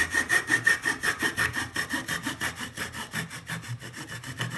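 Small hand saw cutting down through the balsa wood of a welding hood's balsa box, in rapid, even back-and-forth strokes, about six a second.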